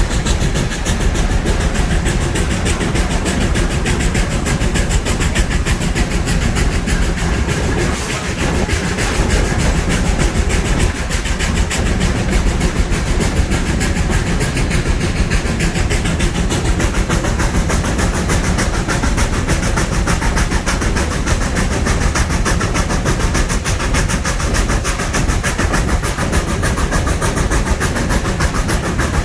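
Narrow-gauge steam train running: a steady, loud rumble with the fast, even clatter of wheels on rail.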